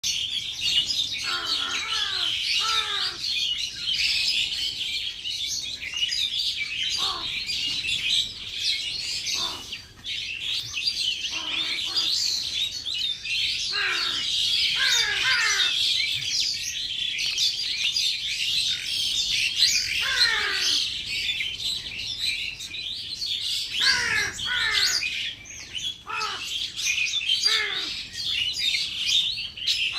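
Many small birds chirping all together without a break, with frequent short calls that slide steeply downward in pitch.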